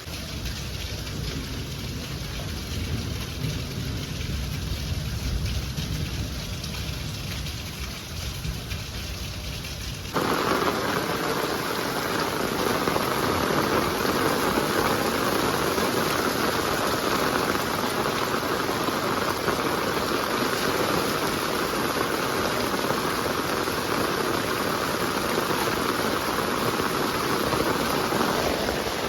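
Heavy rain falling, a steady hiss, with a low rumble under it for the first ten seconds or so. About ten seconds in the sound changes abruptly to a louder, brighter downpour that holds steady.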